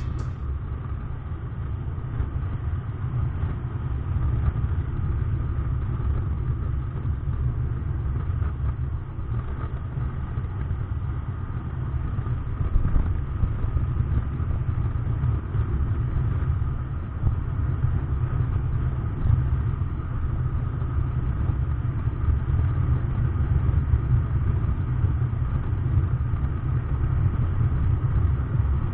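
SYM Joymax Z+ maxi-scooter engine running steadily, a continuous low rumble picked up by a helmet camera.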